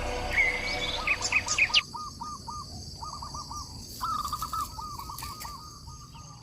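Bird calls: series of short, quickly repeated chirping notes, with some higher notes in the first two seconds.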